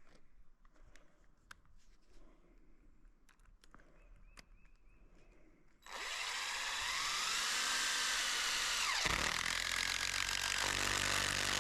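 Cordless drill driving a screw into a wooden post. About six seconds in, the motor starts with a rising whine. It drops in pitch under load a few seconds later, then picks back up and runs steadily. Before that there are only faint taps and clicks.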